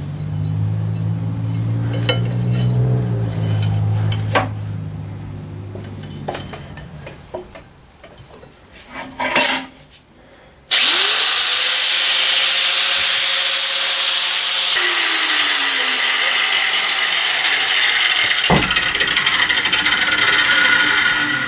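Angle grinder grinding the steel of a lawnmower blade being shaped into a knife. First a low hum fades away with scattered taps and knocks. About halfway the grinder starts with a quickly rising whine and grinds the steel with a loud, hissing rasp.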